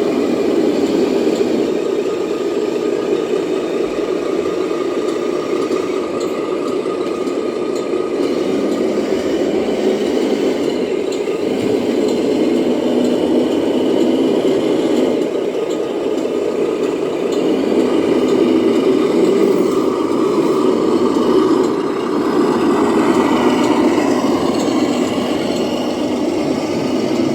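Radio-controlled scale model trucks running: a steady engine-like drone with some rattle.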